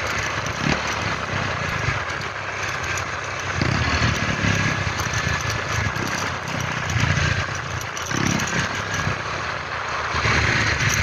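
Ford Ranger 2.2 pickup's engine running under way, with tyre and road noise on a rough mountain road; the engine note swells and eases several times.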